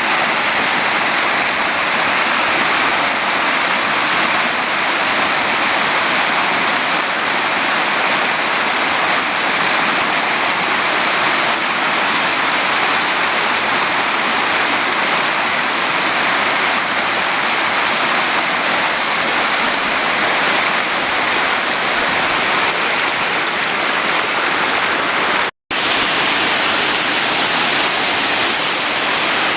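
Waterfall pouring: a loud, steady rush of falling water, cutting out for a split second about four seconds before the end.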